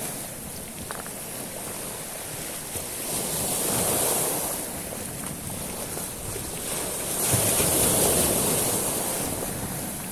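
Sea waves washing over a beach of small stones. Two waves swell and fade, one about four seconds in and a louder one near eight seconds.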